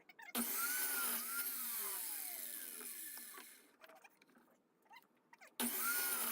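Electric miter saw switched on twice, each time starting abruptly at full speed and then winding down slowly with a falling pitch for a few seconds after the trigger is released. The saw has no blade brake, so it coasts to a stop.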